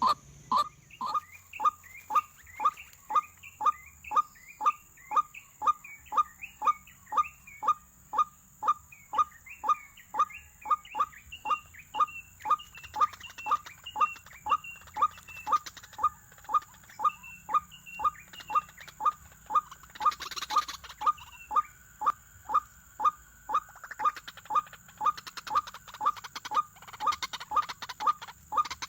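A bird calling, repeating one short downward note evenly at about two a second, with softer higher chirps over it during the first half.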